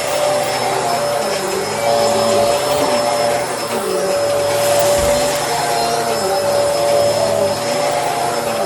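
Bissell Helix vacuum cleaner running steadily, its motor giving a constant whine over the rush of air.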